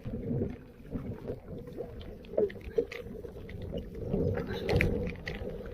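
Floodwater splashing and sloshing, with scattered small knocks and clicks.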